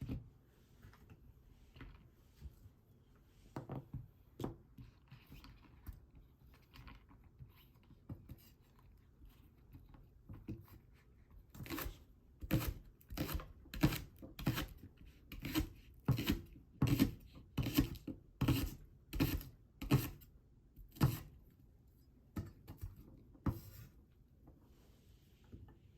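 Kitchen work sounds: small scattered clicks and handling noises, then, about halfway through, a run of evenly spaced knocks, about two a second, lasting roughly nine seconds.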